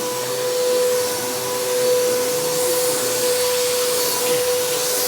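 Bissell PowerTrak Compact upright vacuum running, a steady hum over rushing air. Its motor sounds terrible, in the owner's word.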